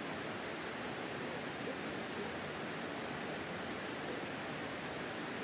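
Campfire burning with a steady rushing noise and a couple of faint pops.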